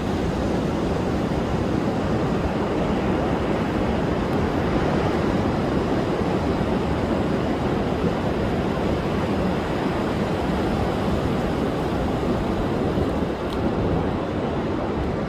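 Heavy storm surf breaking continuously on a sandy swimming beach during a wind and high-wave advisory, a steady loud roar. Strong wind rumbles on the microphone.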